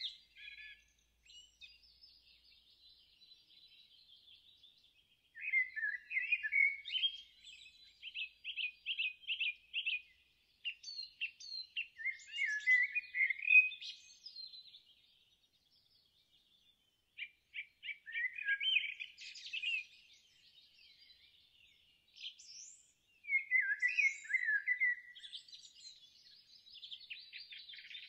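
Songbirds singing: bursts of chirps and quick trills every few seconds, with short quiet gaps between them.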